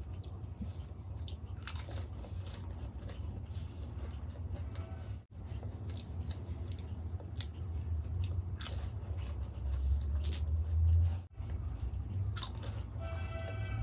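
Close-miked chewing and crunching of dahi golgappa, crisp hollow puri shells filled with yogurt, with scattered sharp crunches over a steady low rumble. A fresh one goes into the mouth near the end.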